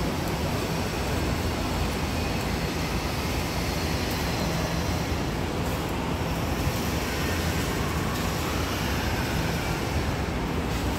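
Steady rushing background noise with a low hum underneath and no distinct events.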